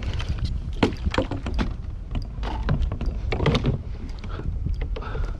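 Irregular knocks and clatter against a plastic fishing kayak over a low rumble, as a hooked northern pike is brought alongside to be landed.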